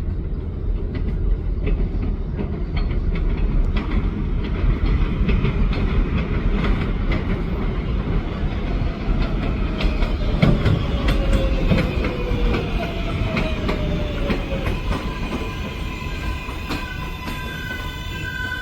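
A 7 local subway train, R188 cars, pulling into the station: heavy rumble and rapid clickety-clack of wheels over rail joints. A falling whine comes in as it slows, and steady high-pitched tones build up near the end.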